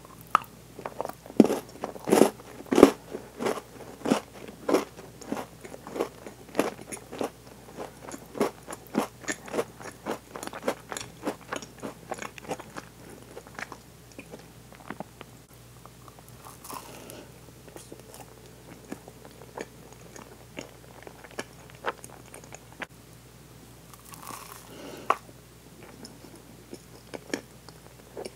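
Close-miked crunching and chewing of a Milka Oreo chocolate piece: rapid crisp crunches, loudest in the first few seconds, thinning to softer chewing by about halfway.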